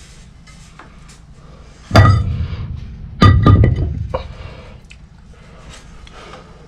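Two loud metal-on-metal clanks, about two and three seconds in, each ringing out for about a second, over a steady low hum.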